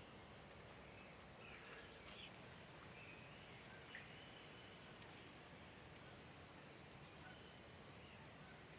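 Faint bird song over a low steady hiss: two quick runs of high chirps, one about a second in and one near the end.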